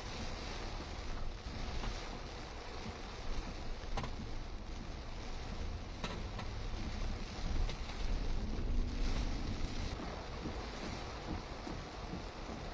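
Heavy rain and strong gusting wind, the wind buffeting the microphone as a deep rumble. The gusts grow louder for a moment about two thirds of the way through.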